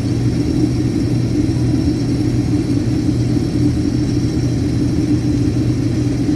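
Case IH 2388 combine harvester running steadily under harvest load, a loud, even engine and machinery drone with a low hum.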